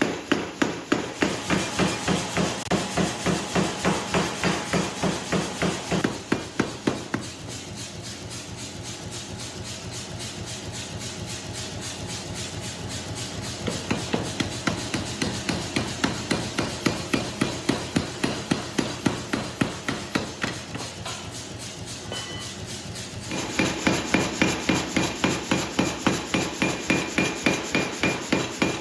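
Hammer blows forging carbon steel, a steady rhythm of about three strikes a second. The middle of the stretch goes over to softer, faster, closer-spaced strikes, then the heavier blows return near the end.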